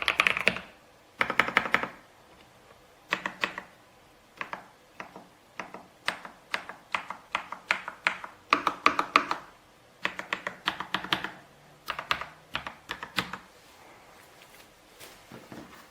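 Typing on a Kisnt wireless gasket-mounted mechanical keyboard with linear switches. Bursts of rapid keystrokes come with short pauses between them and trail off near the end.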